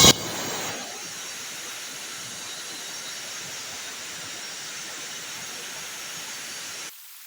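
Steady, even hiss that cuts off suddenly near the end, after one sharp knock right at the start.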